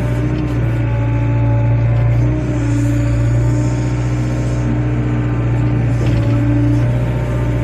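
Excavator's diesel engine running steadily under work, with higher tones that come and go every second or two as the machine moves.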